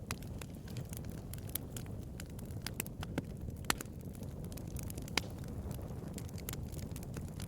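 Bonfire crackling: irregular sharp pops and snaps of burning wood over a steady low rumble of the flames, with a few louder pops near the middle.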